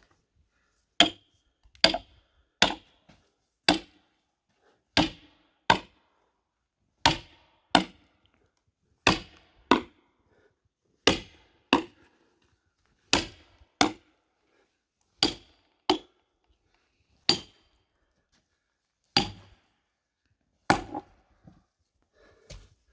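A hammer repeatedly strikes an axe driven into a large log to split it. There are about twenty sharp blows with a metallic ring, mostly in pairs, one pair every two seconds or so.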